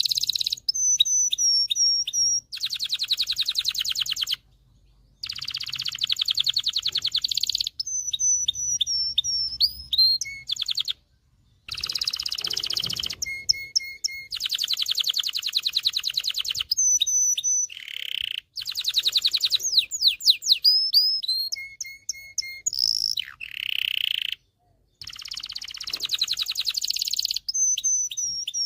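Domestic canary singing: long phrases of rapid trills alternate with whistled notes and sweeping glides, broken by brief pauses.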